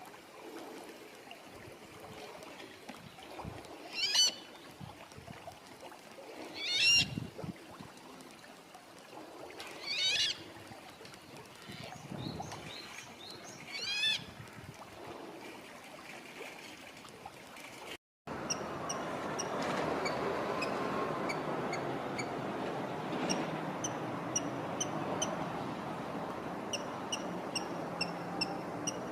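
Brown-cheeked rail calling: four loud, harsh calls a few seconds apart. After a cut about 18 seconds in comes steady running water, with short high bird notes repeated over it.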